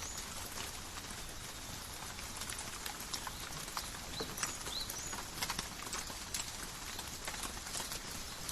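Steady calm rain in a forest, with many separate drops and drips tapping close by. A few short, high chirps come through the rain now and then.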